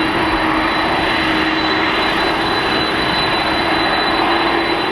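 Jet engines of a departing Boeing 777-300ER, its twin GE90-115B turbofans, giving a loud, steady noise as it climbs away after takeoff. A thin steady high whine runs over the noise.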